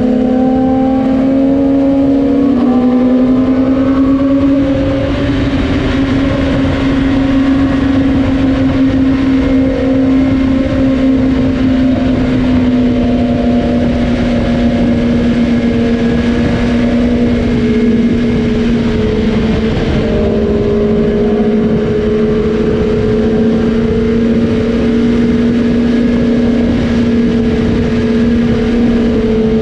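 Superbike engine running at a steady highway cruising speed, its pitch holding nearly constant with small dips and rises, over heavy wind and road rush.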